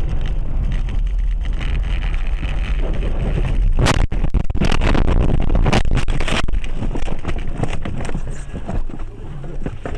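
Dashcam audio of a car driving, with steady engine and road rumble. About four seconds in comes a run of loud bangs lasting a couple of seconds, typical of a collision.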